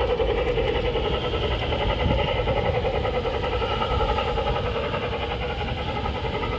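G-scale garden model train running past, a steady hum of its electric motor and gearing with the wheels running on the track.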